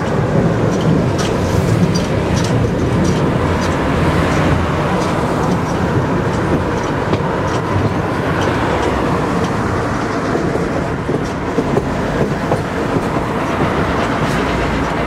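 Narrow-gauge train running, heard from a carriage window: a steady rumble of wheels on the rails with faint scattered clicks.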